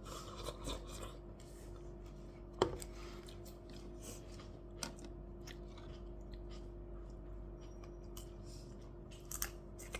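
Eating at a table: quiet chewing and a few sharp clicks of utensils against dishes, the loudest about two and a half seconds in, over a steady low hum.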